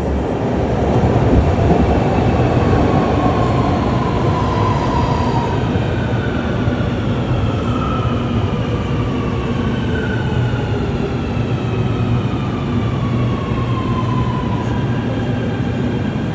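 Train running on rails: a steady loud rumble, with whining tones that slowly rise and fall in pitch.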